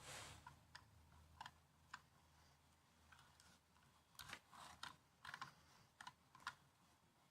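Faint laptop keyboard typing: a few scattered keystrokes, then a quick run of about ten key clicks starting about four seconds in.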